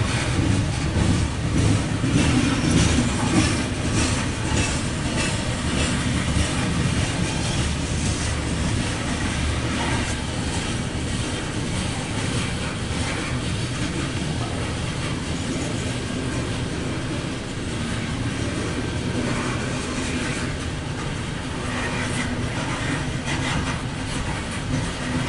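A coal train's hopper cars rolling by: a steady rumble of steel wheels on rail, with clickety-clack over the rail joints, heard from inside a car.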